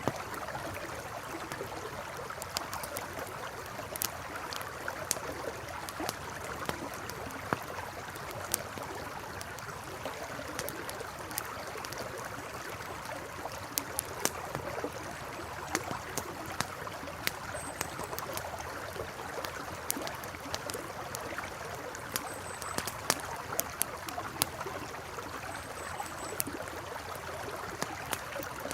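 Campfire crackling with sharp, irregular pops over the steady rush of a flowing river. A few faint, brief high chirps come in over the second half.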